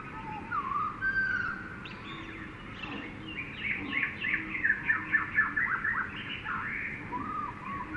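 Jungle bird chorus: several birds calling, with whistled gliding notes at first, then a fast run of short chirps in the middle, over a steady background hiss.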